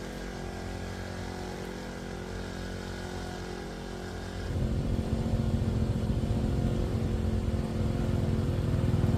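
Motorbike engine running steadily, then louder and rougher from about halfway through, rising in level toward the end.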